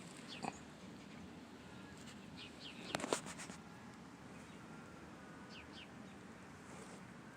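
Birds chirping: short, quick downward chirps here and there over a faint background, with a cluster of sharp clicks about three seconds in.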